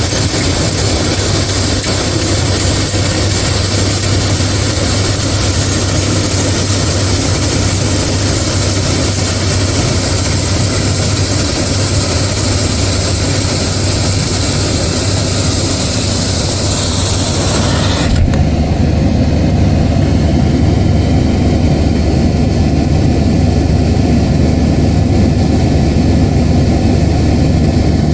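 Heavy machinery of a LORAM SBC-20 rail shoulder ballast cleaner working, a loud steady low engine drone under a broad hiss. About two-thirds of the way through, the high hiss cuts off abruptly and the low drone carries on.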